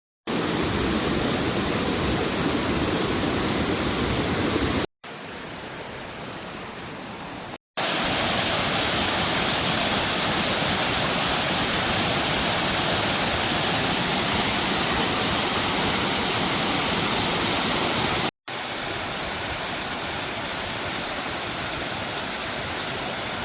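Waterfall pouring steadily, a dense rushing of water, in several cut shots. It drops much quieter for a few seconds about five seconds in and is slightly quieter after a cut near the end.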